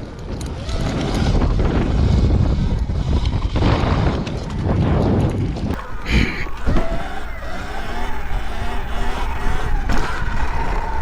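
Wind buffeting the helmet-mounted microphone while a Sur Ron electric dirt bike is ridden. From about halfway through, the motor's whine rises and falls in pitch.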